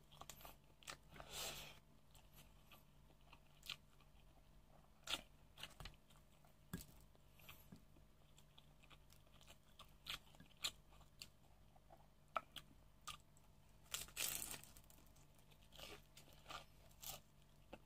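Close-miked crunching and chewing of fried fish spring rolls (lumpiang isda): scattered crisp crackles and mouth clicks, with two longer crunchy bites, one about a second and a half in and one near fourteen seconds.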